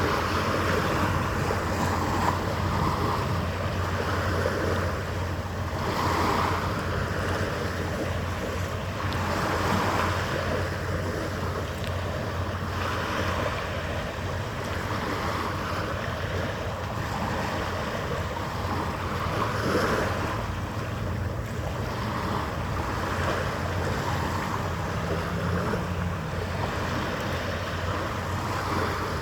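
Harbour water washing and wind blowing over the microphone, swelling every couple of seconds over a steady low hum.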